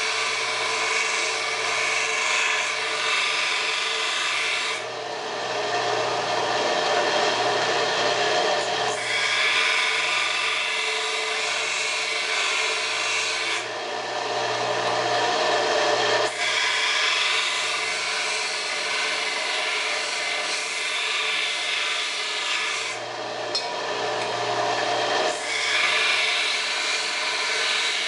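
Belt grinder running steadily while a steel screwdriver shaft is ground against the sanding belt: four long passes of several seconds each give a harsh hiss over the motor's hum, which carries on alone in the short gaps between passes. This is the steel's sides being ground down into a faceted awl point.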